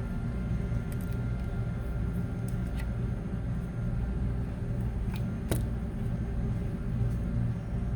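Steady low hum with a few light, sharp clicks of small tools and parts as the phone is reassembled; the clearest click comes about five and a half seconds in.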